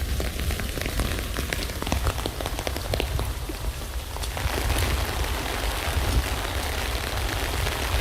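Rain falling on a tent: many separate drops tapping over a steady hiss, with a low rumble underneath. The rain grows heavier about four seconds in.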